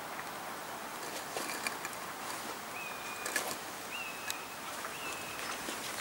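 A bird gives three short whistled notes about a second apart, over a steady outdoor hiss, with a few light footsteps on paving tiles.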